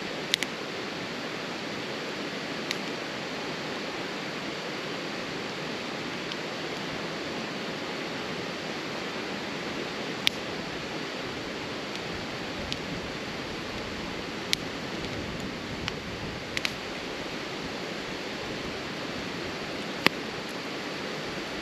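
Wood campfire crackling, with single sharp pops every few seconds over a steady rushing hiss.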